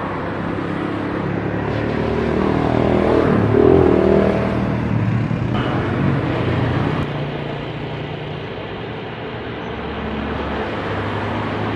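Jet airliner engines rumbling as the aircraft passes, the sound swelling to a peak about four seconds in and then easing off.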